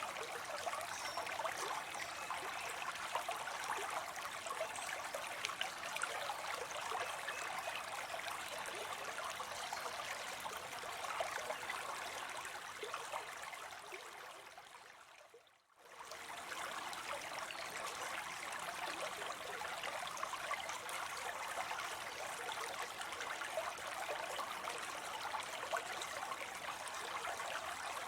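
Water spilling into a pond, a steady splashing trickle. About halfway through it fades away over a second or so, then quickly comes back.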